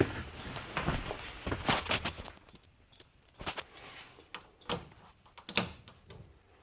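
Footsteps and handling knocks of a person boarding a school bus: scuffing steps, then a few separate sharp knocks and clicks. About two seconds in, the outdoor background falls away.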